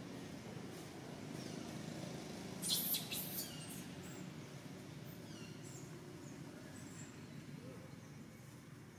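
Outdoor ambience of small birds giving short, high chirps now and then over a steady low background hum. A brief scratchy burst about three seconds in is the loudest sound.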